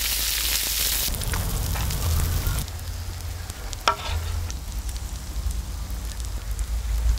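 Hamburger steak patties sizzling in oil on a large round cast-iron cauldron-lid griddle. The sizzle is loudest in the first second, then softer, with one sharp click about four seconds in.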